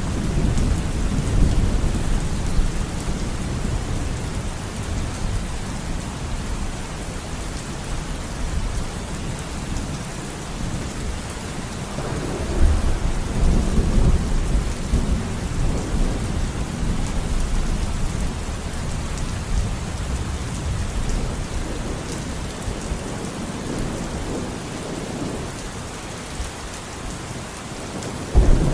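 Steady rain falling with rolling thunder. The rumbles swell near the start and again about twelve seconds in, each fading slowly, with a fainter one later on.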